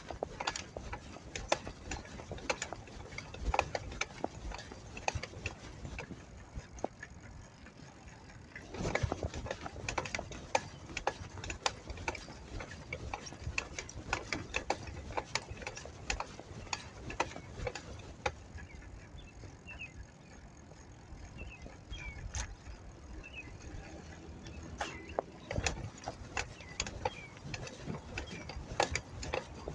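Bicycle clicking and rattling as it is ridden, a rapid, uneven stream of ticks with louder clattering spells about a third of the way in and again near the end.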